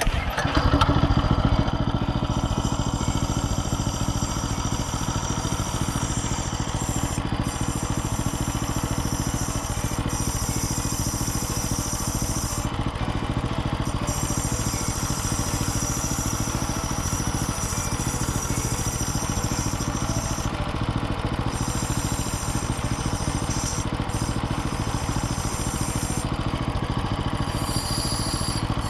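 Small engine of a Takakita SE511 walk-behind mini roll baler running steadily. It comes in suddenly and is loudest for the first second or two, then holds an even note. The engine is in good running order.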